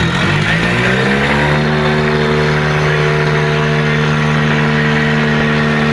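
Tractor diesel engine revving up over the first second and a half, then held steady at high revs.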